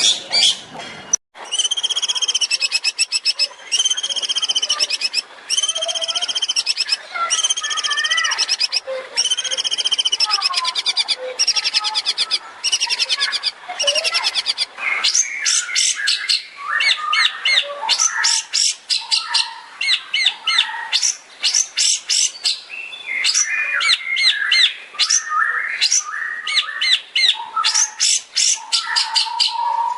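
Long-tailed shrike (cendet) singing a loud, fast, varied song: a run of repeated arching phrases about a second each, then rapid chattering notes and trills in the second half.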